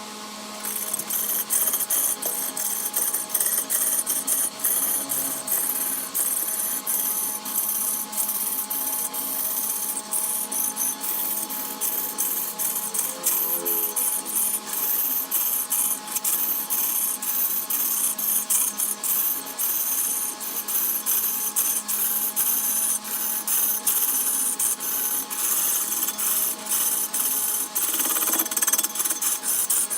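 Power woodworking machine cutting wood: a steady motor hum under rapid, irregular high scraping and crackling as the tool bites into the wood.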